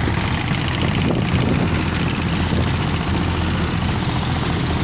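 Boat engine running steadily at a constant speed, a loud, even throb.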